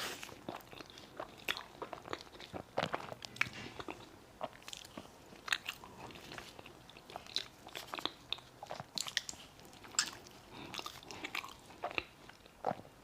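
Close-miked eating: a person biting and chewing soft chocolate lava cake, with irregular wet mouth clicks and small crunches.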